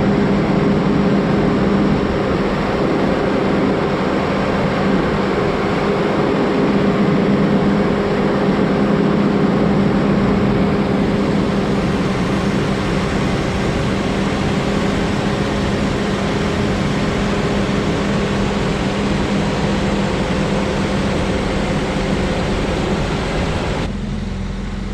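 Large engine running at a steady speed: a constant loud drone with a steady hum. The sound changes abruptly about a second before the end.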